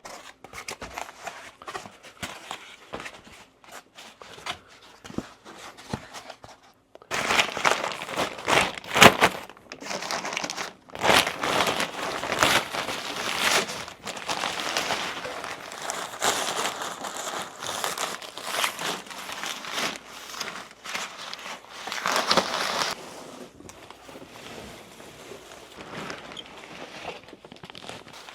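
Packaging crinkling and rustling as it is pulled off and handled during unboxing, in dense irregular crackles. It is fainter at first, gets louder about seven seconds in, and eases off again near the end.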